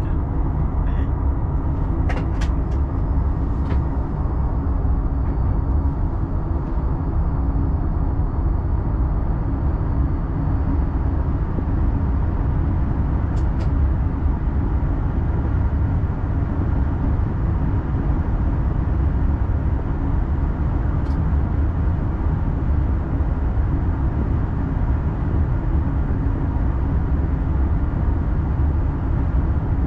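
X40 electric multiple unit running along the line, heard from the driver's cab: a steady low rumble of the train in motion, with a few faint clicks.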